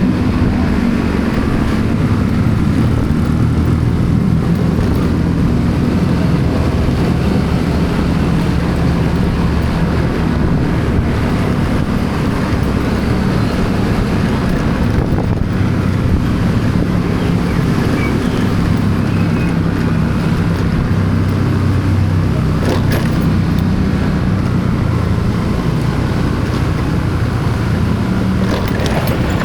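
A road vehicle's engine running steadily on the move, its pitch shifting slightly as speed changes, over a continuous rush of road noise.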